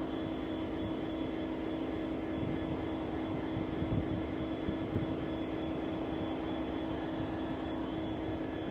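Freightliner Class 66 diesel locomotive's two-stroke V12 engine running with a steady droning hum over a low rumble, with a few low knocks about four and five seconds in.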